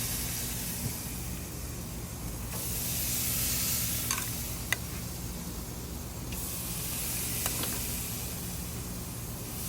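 Pork chops sizzling on a grill, a steady hiss that swells and eases, with a few sharp pops.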